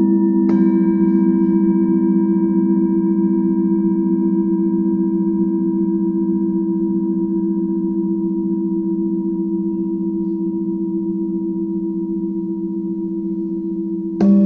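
Singing bowls ringing over a steady low hum. One is struck about half a second in and its higher tones fade slowly; another is struck just before the end.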